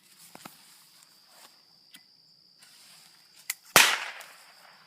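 A single firecracker exploding a little under four seconds in: one sharp, loud bang with a short fading tail. A smaller crack comes just before it.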